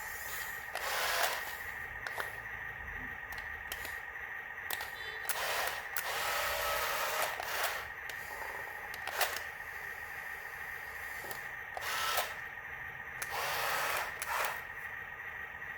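Small electric gear motor of a toy excavator whining steadily, with several louder hissing surges of a second or so and a few sharp clicks as the machine works.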